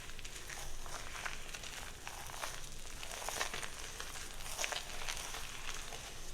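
Crackling, rustling strokes through hair, coming irregularly at about one a second.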